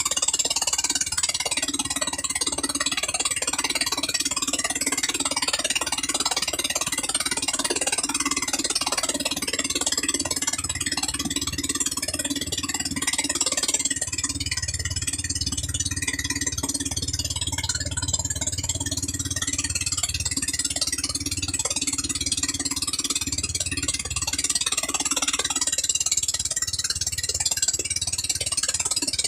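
A 13 hp gasoline engine running steadily under a constant hiss. A deeper hum comes in about ten seconds in and drops away about fifteen seconds later.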